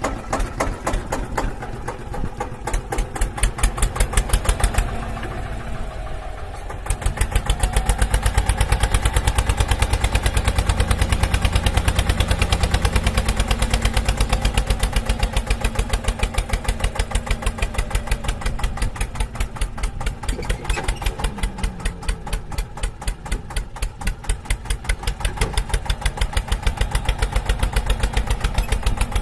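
Tractor engine idling with an even, steady thudding beat. It eases off briefly and comes back louder about seven seconds in.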